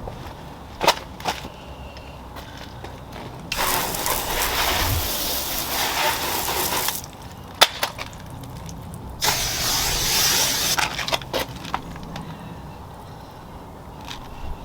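Liquid being sprayed onto the car's paintwork in two long hissing bursts, one of about three seconds and a shorter one of about a second and a half, with a few sharp clicks and knocks between them.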